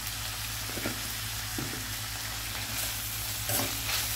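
Sliced onions, green chillies and peas sizzling steadily in hot oil in a stainless steel kadai. Near the end a steel spoon starts stirring and scraping through them against the pan.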